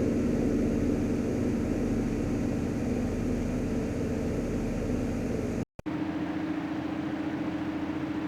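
A steady mechanical whir with a low hum cuts off suddenly about five and a half seconds in. After a brief silence a second, different whir starts: a steady single-pitched hum with a fast pulsing.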